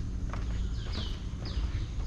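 Footsteps on a trail, one about every half second or more, while a bird repeats short high whistled notes that each drop in pitch, some in quick pairs.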